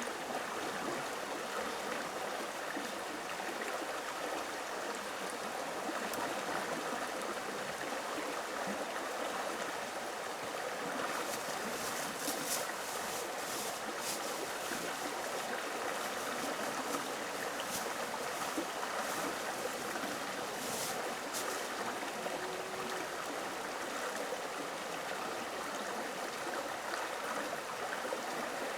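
Steady rush of flowing stream water, with a run of light clicks and taps from about eleven to twenty-two seconds in.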